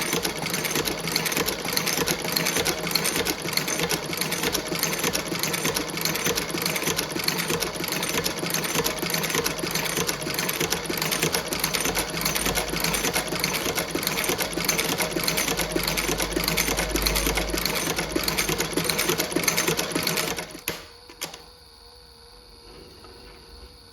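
Industrial sewing machine stitching boot leather at a steady, fast stroke rate, stopping abruptly near the end.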